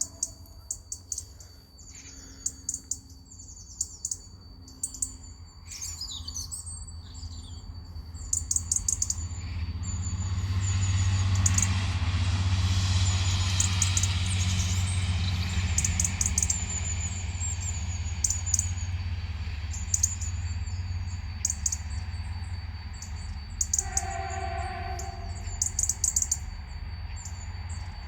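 Birds chirping steadily by the lineside while a train's low rumble swells and then slowly fades. Near the end a train horn sounds one short note.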